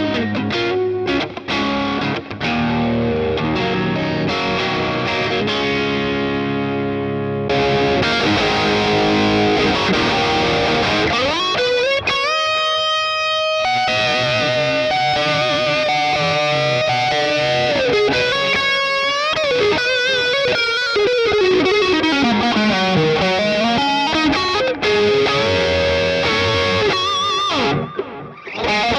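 LTD ST213 electric guitar played with distortion and effects: sustained chords at first, then from about eight seconds in a brighter lead line with string bends and vibrato, a long held note, and a swooping dip in pitch and back up.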